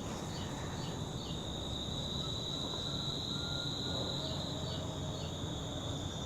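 Insects trilling steadily in one unbroken high tone, with a few short chirps and a faint low rumble of background noise underneath.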